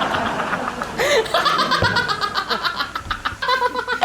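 People laughing hard, in rapid repeated voiced pulses.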